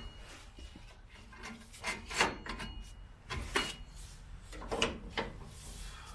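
Rear parking brake cable on a Ford F-150 being fed through its routing, scraping and rubbing against the truck's metal, with several sharp clicks and knocks, the loudest about two seconds in.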